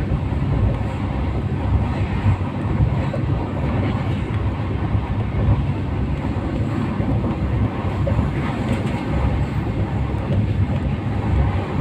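Train running on the rails: a steady low rumble with no distinct clicks or breaks.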